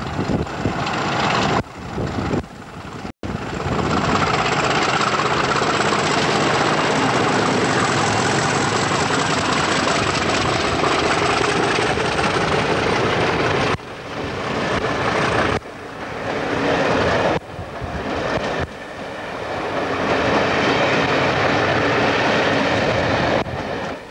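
Diesel locomotive hauling a passenger train past at close range, its engine giving way to the rumble of the coaches' wheels on the rails. The sound cuts out abruptly several times and fades right at the end.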